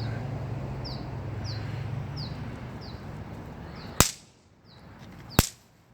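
Two sharp cracks from small fireworks going off, about a second and a half apart, after a steady hiss that fades over the first few seconds.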